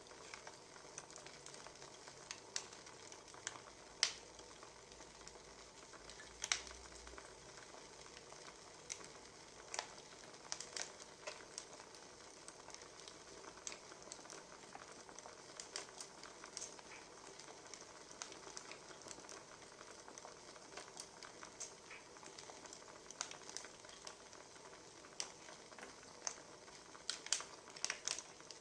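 Burning firewood crackling: a faint, steady hiss with irregular sharp pops and snaps.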